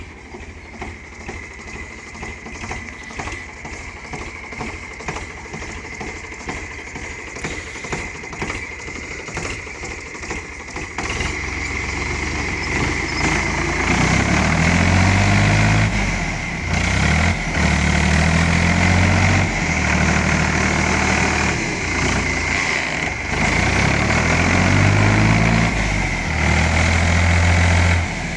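Ford 3600 tractor's three-cylinder engine running with a steady high whine. About eleven seconds in it grows louder, and from about fourteen seconds the engine speed rises and falls again and again.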